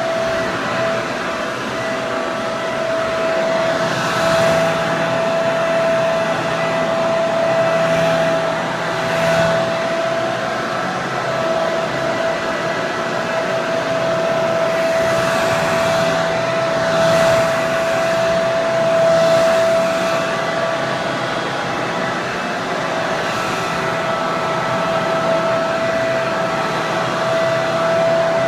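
Hair dryer running steadily: a continuous rush of air with a steady motor whine, the loudness swelling gently now and then.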